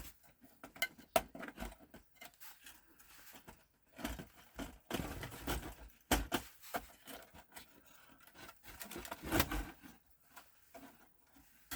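Plastic game-console casing being handled and pried during a teardown: scattered clicks, light knocks and scrapes, with a few sharper snaps about a second in, around six seconds and around nine seconds.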